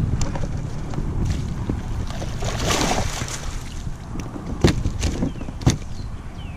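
Water splashing and sloshing beside a kayak as a hooked bass is brought in, with a louder splash a little before halfway, over low wind rumble on the camera mic. Two sharp knocks come near the end.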